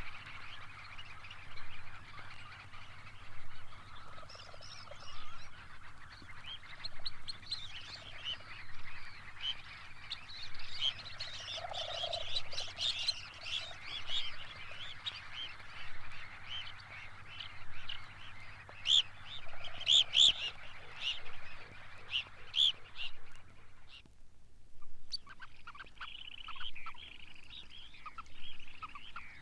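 Red phalaropes (grey phalaropes) calling: a run of many short, sharp notes, with a brief break about 24 s in before another recording of the calls starts. A faint low hum from the record playback lies under them.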